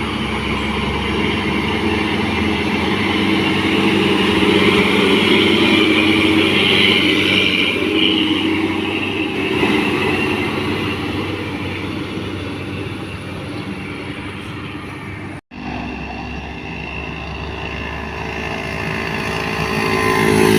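Diesel engine of a heavily loaded truck labouring up a steep climb, a steady drone that breaks off for an instant about three-quarters of the way through, then carries on.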